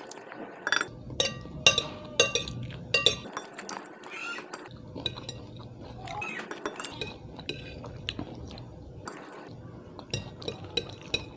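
An eating utensil clinking against a bowl as instant ramen noodles are eaten, in quick clusters of sharp clinks at the start and again near the end, with softer eating noise between.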